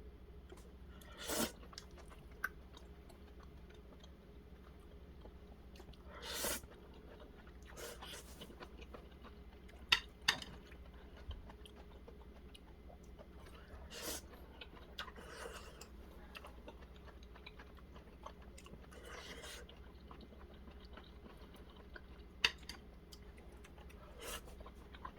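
A person eating the spicy beef brisket stir-fry: scattered bouts of chewing and crunching with a few sharp clicks, about ten short sounds spread out over a faint steady hum.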